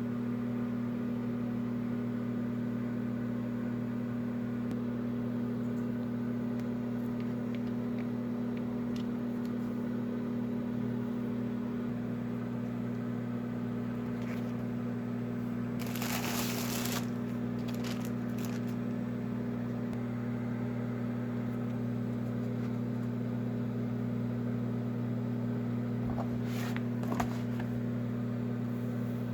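Steady electrical hum of a running kitchen appliance motor. About halfway through there is a brief rustle, and near the end a couple of light clicks.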